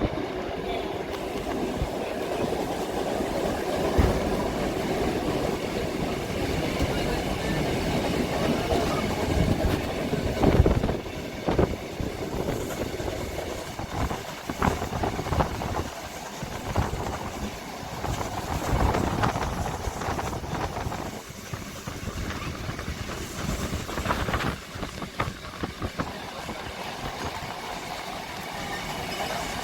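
Train running along the track, a steady rumble with irregular wheel clatter and knocks; the loudest knock comes about ten seconds in.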